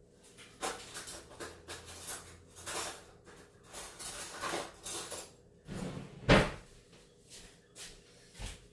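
Kitchen clatter: cupboard doors and dishes being handled, heard as a string of short knocks and rustles, the loudest a single thump about six seconds in.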